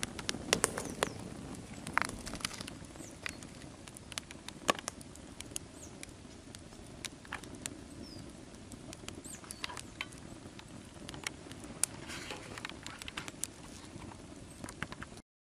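Wood fire of a Swedish torch log crackling: irregular sharp pops and snaps over a low steady hiss of burning, with a few faint high squeaks. The sound cuts off abruptly near the end.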